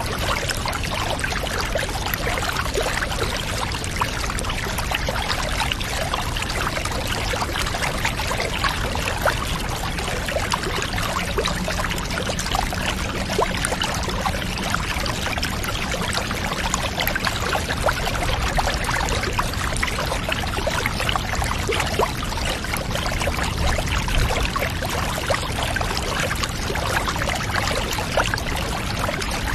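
Water running and trickling steadily, a continuous pour with a fine splashing texture and no breaks.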